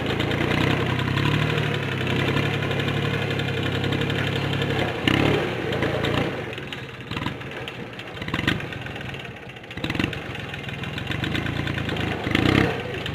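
Mitsubishi 4x4 mini tractor's diesel engine running at idle: steady for about five seconds, then uneven and quieter for a few seconds before settling back into a steady idle.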